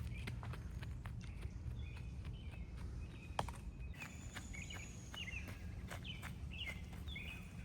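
Faint outdoor ambience: a bird calls in short, repeated chirping notes from about two seconds in, over a low rumble, with scattered light clicks like footsteps or rustling.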